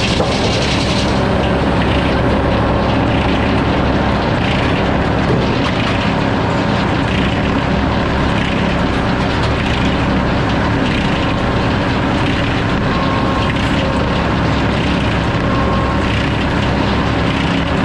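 Sawmill running steadily under load as its saw cuts through a log: a continuous engine drone under the dense hiss of the cut.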